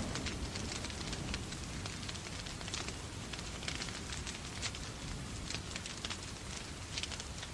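Wood fire in a fireplace crackling with frequent irregular pops, over a steady hiss of rain.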